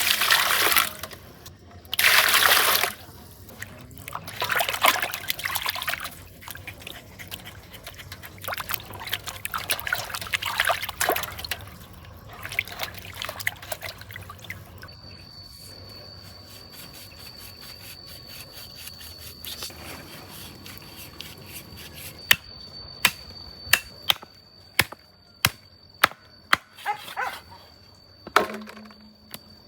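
Water splashing and pouring in several bursts. Later a steady high whine comes in, and near the end there is a run of sharp knocks about once a second.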